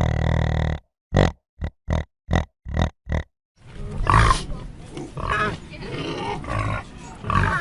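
Pig grunting: one longer grunt, then a string of five short grunts with gaps between. About halfway in, another recording starts, with pigs grunting and giving higher calls over each other on a steady background.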